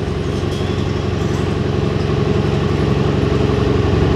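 Pro stock semi truck's diesel engine idling steadily, getting slightly louder toward the end.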